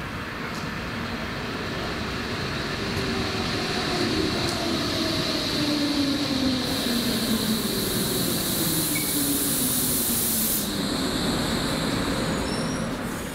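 Berlin S-Bahn electric train pulling into a station and slowing to a stop. The whine of its traction motors falls steadily in pitch as it slows, over the rumble of the wheels on the rails. A high hiss runs for a few seconds in the middle.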